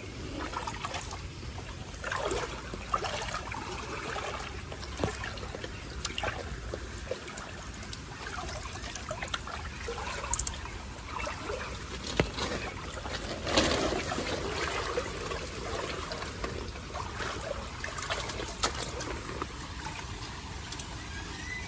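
Floodwater trickling and splashing as it drains, with scattered splashes and knocks throughout, the strongest about two-thirds of the way in.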